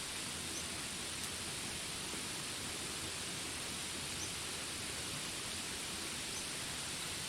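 Steady hiss of rain in a jungle soundscape, even and unbroken, with three faint, brief high chirps.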